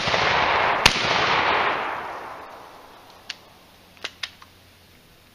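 Two shotgun shots about a second apart, followed by a loud rushing rumble that fades out over about two seconds. A few light metallic clicks follow, likely the gun being handled.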